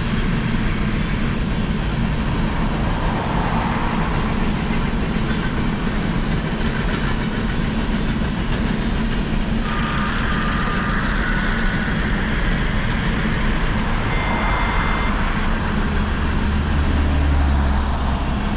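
A train rolling past close by: a steady rumble of wheels on rails. Brief high-pitched tones sound near the middle and again about two-thirds through, and a deeper drone swells near the end.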